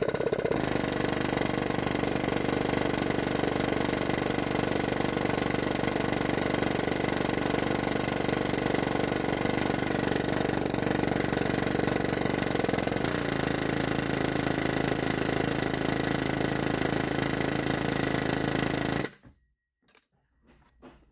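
Pneumatic air hammer running in one long continuous burst of rapid hammering against an alternator that corrosion has seized onto its mounting stud. The pitch drops slightly about two-thirds of the way through, and the hammering cuts off suddenly near the end.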